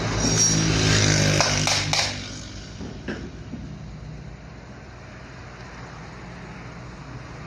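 AC motor running with a steady hum and a few clicks and rattles, said to have a sound problem; about two seconds in the hum drops away sharply, leaving a quieter hiss with a single click a second later.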